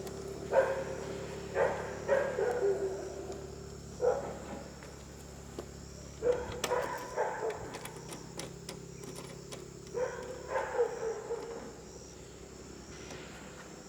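A dog barking in short clusters of a few barks, over a steady low hum; the barking stops near the end.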